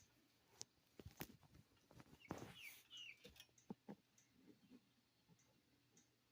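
Faint, scattered clicks and taps from roosters moving about, with a few short, high chirps between about two and a half and three seconds in.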